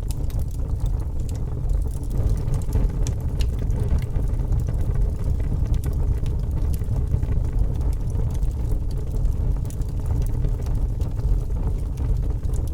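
Logs burning in a fireplace: a steady low rumble of the flames with faint, scattered crackles.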